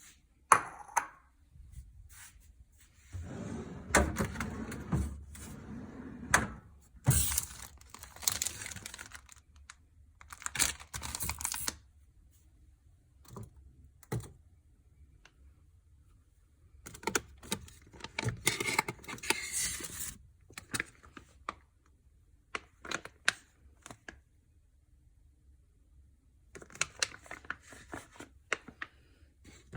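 Someone handling small objects, with irregular clicks, light knocks and rustling in bursts separated by quiet pauses.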